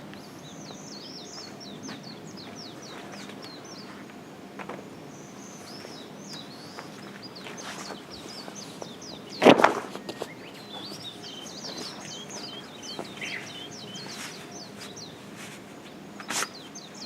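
Small birds chirping in quick repeated runs over a steady outdoor background, with one sharp loud knock about halfway through and a smaller one near the end.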